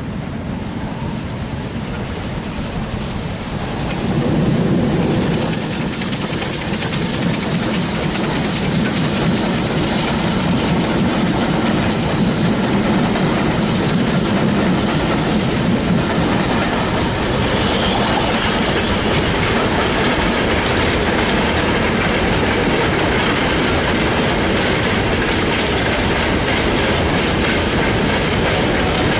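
A steam-hauled passenger train passing close by, getting louder about four seconds in as the locomotive and coaches come alongside, the wheels clacking over the rail joints. Near the end a train of mineral wagons rolls past on the other line.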